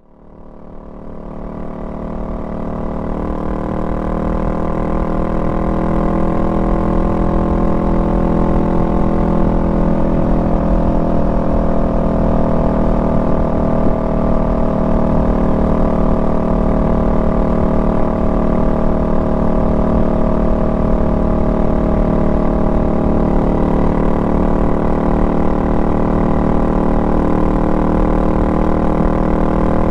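Honda Rebel 500's parallel-twin engine running at a steady speed under way, with a low rumble beneath it. It fades in over the first few seconds and dips slightly in pitch about ten seconds in before settling again.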